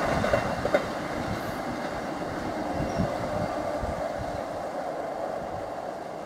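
Container freight wagons rolling away along the track. A few sharp knocks from the wheels come in the first second, then a steady rolling noise slowly fades as the train draws away.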